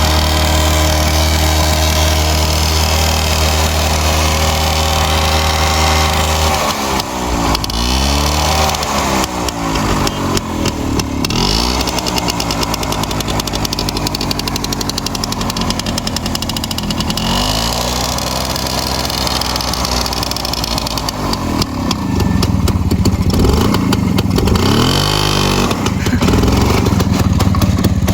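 Rajdoot 175's single-cylinder two-stroke engine idling steadily, then revved hard several times, its pitch sweeping up and falling back each time.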